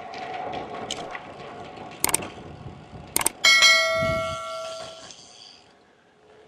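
A couple of sharp clicks, then one loud bell-like metallic ring about three and a half seconds in that dies away over about two seconds.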